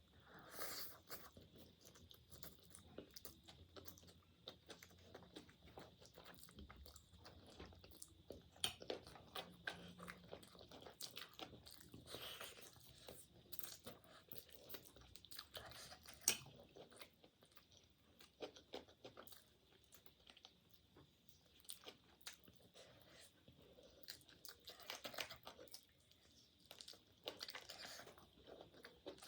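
A person chewing and biting food close to the microphone: soft, irregular mouth sounds and crunches, with a couple of sharper crunches, one about eight seconds in and one about sixteen seconds in.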